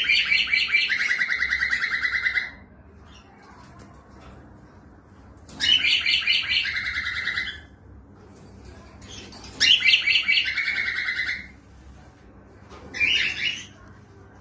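Cockatiel singing in four separate phrases, each a fast run of repeated notes that starts higher and drops to a lower run. The first three phrases last about two seconds each; the last, near the end, is brief.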